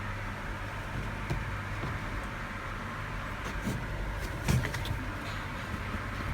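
Spin-dryer tub motor of a Hisense twin-tub washing machine running steadily, spinning wet clothes, with a brief clatter about four and a half seconds in.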